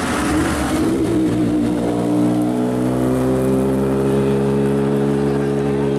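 Rally car engine held at steady revs, a constant even note, after a rush of noise in the first second or so.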